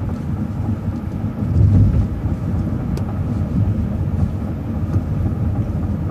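Transit bus driving along a city street, heard from inside: a steady low engine and road rumble that swells briefly about a second and a half in.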